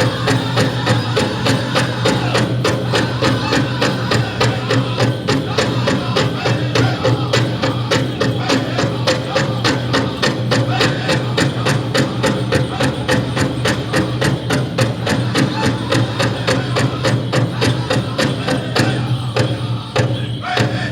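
A powwow drum group singing a chicken dance song while several drummers strike a large shared drum in a steady, fast beat. The singing and drumming thin out near the end.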